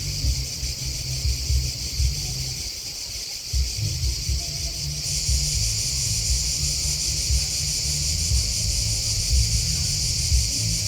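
Steady high-pitched chirring of grasshoppers and crickets, growing louder about five seconds in, over an uneven low rumble.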